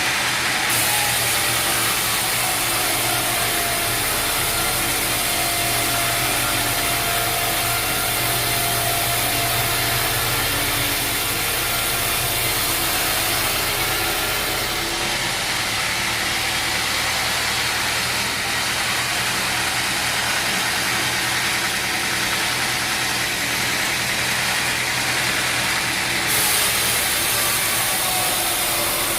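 Sawmill machinery running steadily: a motor hum under a loud, even hiss. The hiss changes abruptly about a second in, about halfway through, and again near the end.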